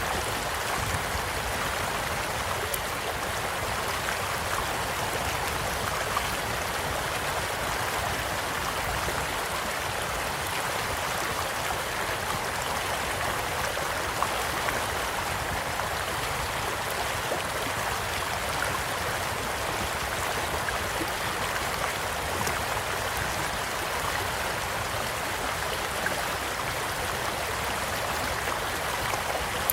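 A gentle stream flowing steadily, with now and then a sharp pop from a crackling campfire.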